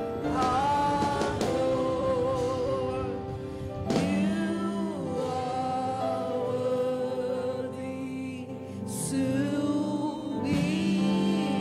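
Gospel worship song: voices holding long, wavering notes over musical accompaniment.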